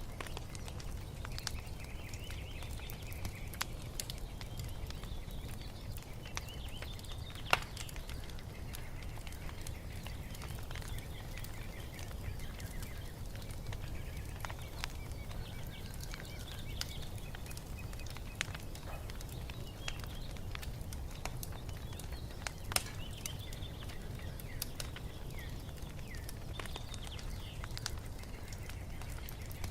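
Wood fire crackling with scattered sharp pops, two of them louder, over a steady low rumble, while songbirds chirp and sing.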